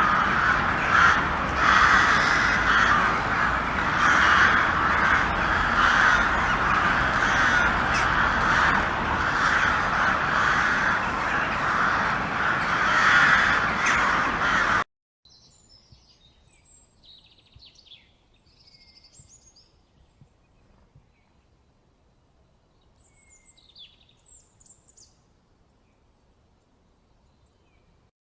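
A flock of crows cawing, many harsh calls overlapping in a dense chorus. About halfway through it cuts off abruptly to a much quieter stretch with a few faint, high chirps of small birds.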